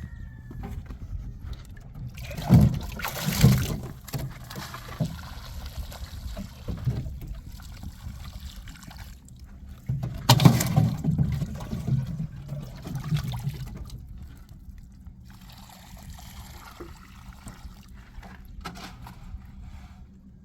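Liquid sloshing and splashing in two bouts, the first about two and a half seconds in and the second about ten seconds in, with quieter trickling between and after.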